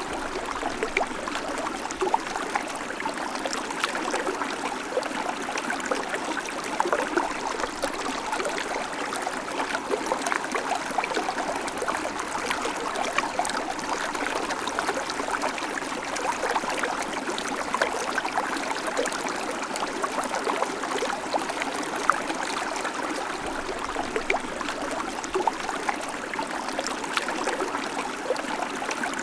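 Babbling creek: shallow water running over stones, a steady bubbling and trickling peppered with many small splashes.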